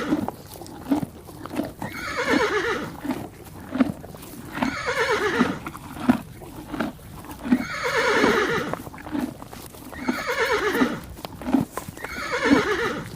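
Horse neighing, about five or six separate whinnies a few seconds apart, each a wavering call that falls in pitch.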